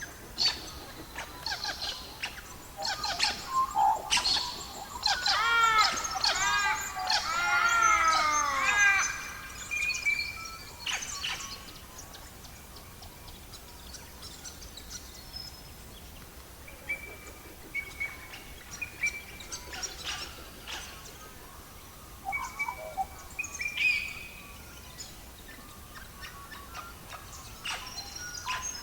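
Songbirds chirping and singing: a busy run of quick chirps and rapid down-slurred notes in the first several seconds, then scattered short whistles and chirps over a faint steady hiss.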